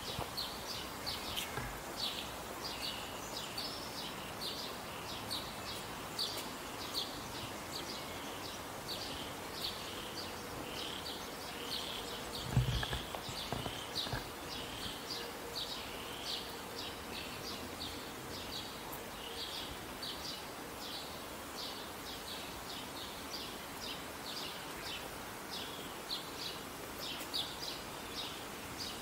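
Birds chirping continuously, short high chirps repeating two to three times a second, over a faint outdoor hiss. A dull thump comes about halfway through.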